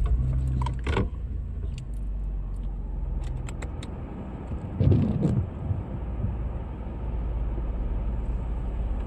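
Car engine running, heard from inside the cabin as a steady low rumble, with a few light clicks.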